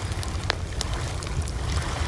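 Campfire crackling: sharp pops over a steady low rumble, with the loudest pop about half a second in.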